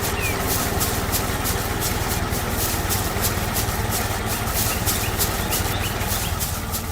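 Engine idling steadily, with a regular low hum and faint bird chirps over it.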